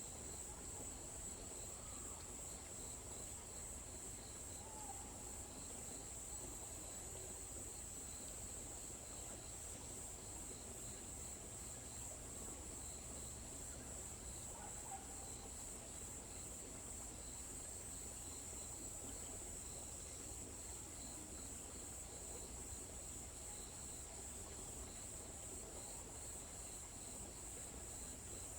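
Steady, high-pitched chorus of insects in a forest, unbroken, with a fainter pulsing trill under it. A few faint short bird chirps come through, about two, five and fifteen seconds in.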